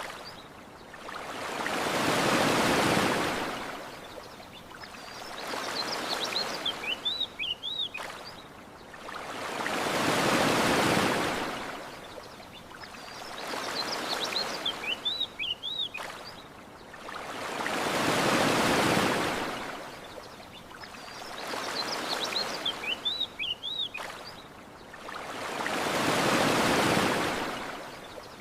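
Gentle ocean waves washing onto a sandy shore, each surge swelling and fading about every eight seconds, with small birds chirping in short bursts in the lulls between waves.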